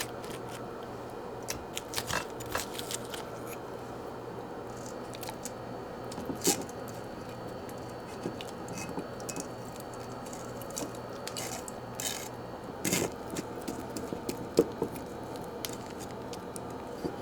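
Scattered light clicks, taps and small scrapes of things being handled, the sharpest about six and a half seconds in and again around thirteen to fifteen seconds, over a steady low hum.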